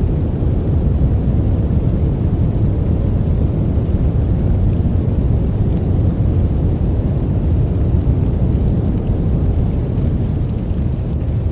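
Steady, deep rushing noise from a white-noise sleep track, heavy in the low end like a distant rumble, even throughout with no breaks or separate sounds.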